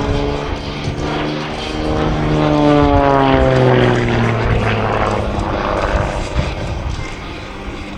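Xtreme Air XA41 Sbach 300 aerobatic plane's 315 hp Lycoming AIO-580 engine and propeller running at high power. The engine note falls steadily in pitch between about two and five seconds in.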